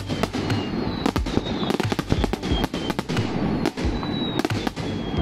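Aerial fireworks shells bursting in rapid, irregular succession: many sharp bangs over a continuous rumble, with a few thin, slightly falling high whistles among them.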